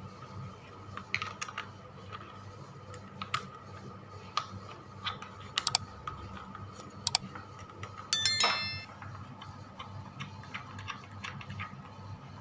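Scattered light clicks and taps of hand work on a ceiling exhaust fan installation, with a short ringing metallic clatter about eight seconds in, over a low steady hum.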